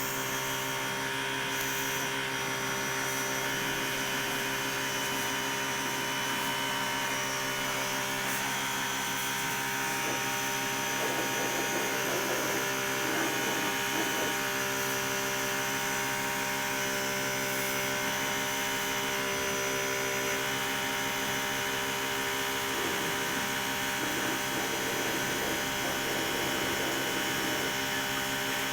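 Car wash machinery running: a motor gives a continuous, unchanging hum with several steady tones over a hiss.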